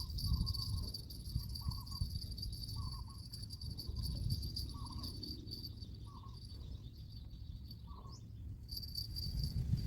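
Insects, cricket-like, trilling steadily at a high pitch, the trill stopping briefly near the end and then resuming. Short chirping calls repeat about once a second over a low rumble.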